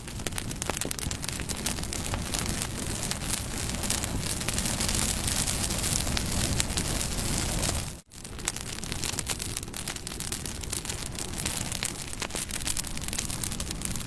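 Wood fire burning, with dense, continuous crackling and popping over a steady hiss. The sound cuts out for a split second about halfway through, then resumes.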